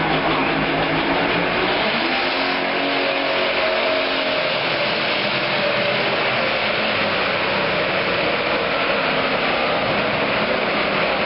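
Pro stock pulling tractor's turbocharged diesel engine running loud and steady, its pitch shifting in the first few seconds before holding even.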